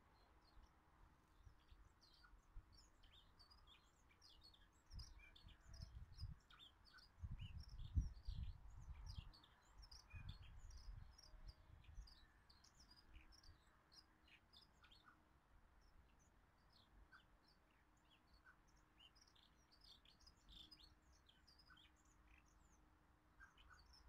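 Small garden birds chirping faintly, many short high calls throughout. A low rumble comes and goes in the middle and is louder than the calls.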